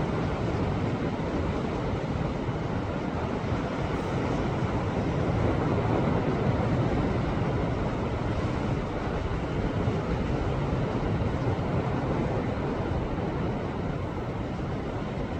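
Sea waves surging against a rocky shore: a steady, rumbling wash of surf that swells a little around the middle.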